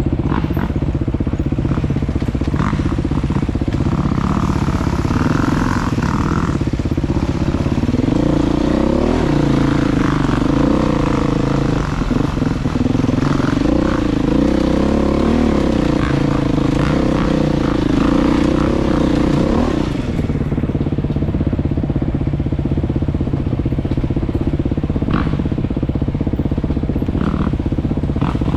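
Motorcycle-type engine running steadily while ridden, with the revs rising and falling for about ten seconds in the middle.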